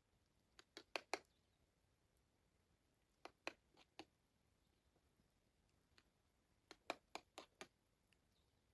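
Near silence broken by three short clusters of sharp clicks, four or five in each, a few seconds apart.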